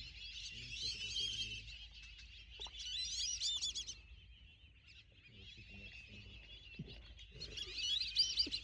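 A flock of whistling ducks calling: many high, wavering whistles overlapping in a chorus that comes in waves, swelling near the end.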